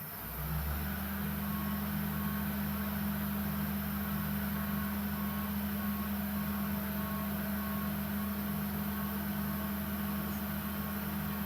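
Heavy vehicle engine running at a steady idle, coming in and settling within the first second.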